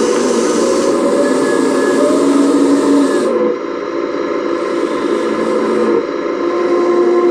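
Radio-controlled hydraulic excavator running: a whining pump and motors over a steady hiss, the pitch shifting as the load changes and stepping down suddenly a few seconds in.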